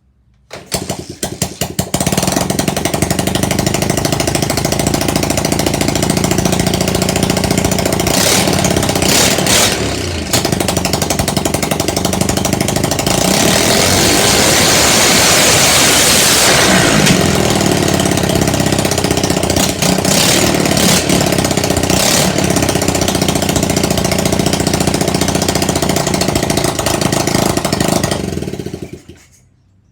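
Lifan 125cc single-cylinder four-stroke motorcycle engine, fitted to a Honda CT90, starting with a few ragged sputters and settling into a steady run. It is revved up for several seconds near the middle, then drops back and is switched off near the end.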